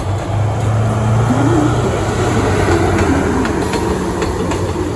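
Train running into the platform: a steady low hum with rolling wheel noise, and a few sharp clicks of the wheels over rail joints between about three and four and a half seconds in.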